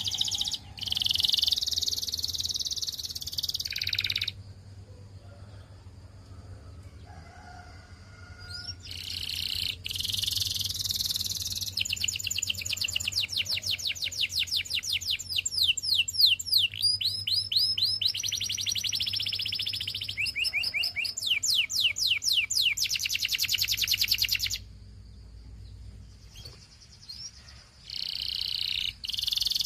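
Canary singing in phrases of high, rapid repeated trilled notes, with a pause of a few seconds near the start and another near the end.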